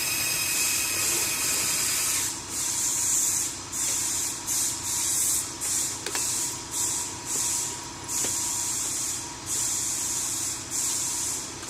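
Radio-controlled D11 bulldozer model working: a hiss that cuts in and out in irregular bursts, over a faint steady motor whine.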